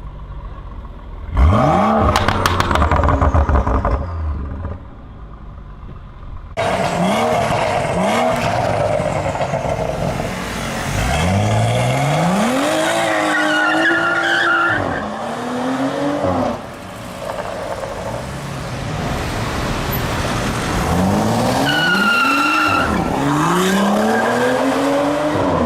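BMW M135i's turbocharged straight-six engine and exhaust under hard acceleration, heard in several clips joined by sudden cuts: the pitch climbs through each gear and drops back at each shift.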